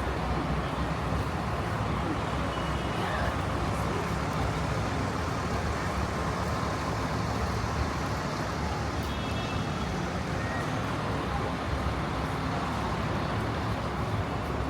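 Steady city street traffic noise: a constant low rumble of vehicles passing.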